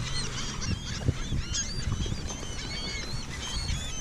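A dense flock of gulls calling over one another, many short, curved cries overlapping, over a steady low rumble.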